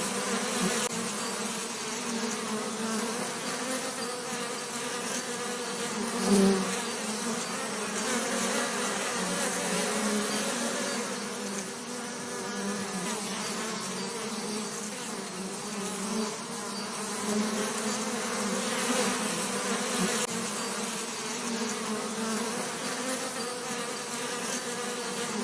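Bees buzzing: a steady, low-pitched buzz that swells briefly louder about six seconds in.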